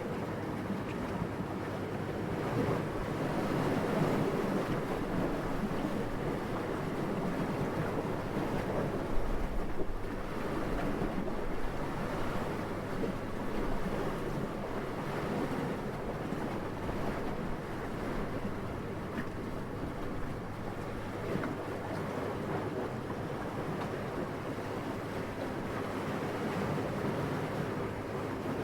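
Steady low rushing wind that swells and eases slowly, with a brief stronger gust about nine to ten seconds in.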